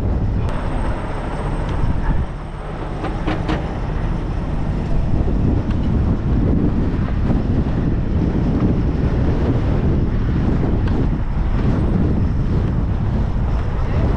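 Strong wind buffeting the GoPro's wind-guarded microphone: a loud, steady low rumble that eases briefly about two seconds in.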